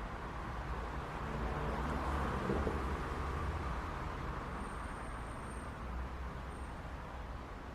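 City street traffic: a steady rumble of cars and engines, with one vehicle passing close, swelling to a peak about two and a half seconds in and then fading back into the traffic hum.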